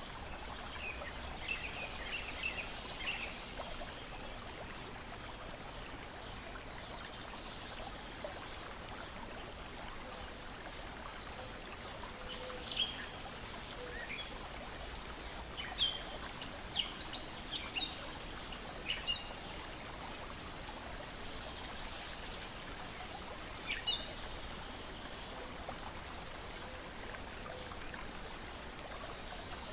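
Steady lapping and trickling of water, with small birds chirping in short clusters several times, busiest through the middle.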